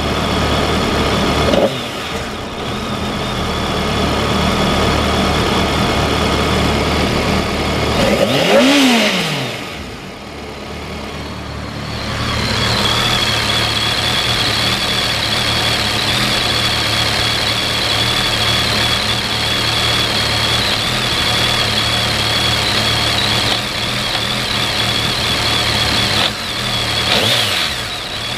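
2007 BMW K1200S's inline-four engine idling, revved once about a third of the way in, its pitch rising and falling back, and blipped again briefly near the end. A steady high whine sits over the idle through the second half.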